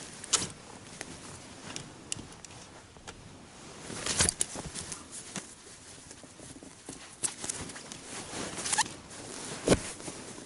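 Scattered rustling and small clicks, with sharper knocks about four seconds in and again near the end, like objects being handled and set down.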